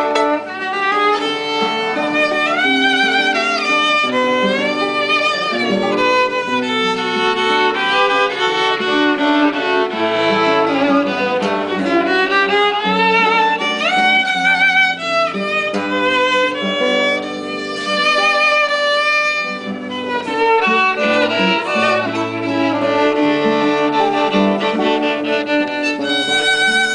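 Violin playing a hymn melody with pitch slides and vibrato, over sustained lower accompanying notes.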